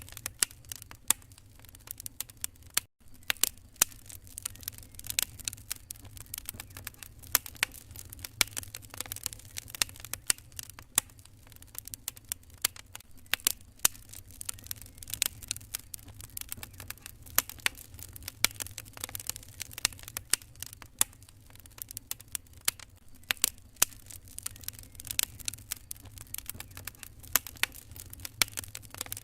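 Wood fire crackling in a fireplace: irregular sharp pops and snaps over a steady low rumble of the flames, with a very brief drop-out about three seconds in.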